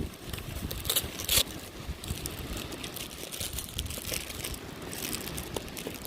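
Wind buffeting the microphone, with crinkling, crackling handling sounds on top and a louder crackle about a second in.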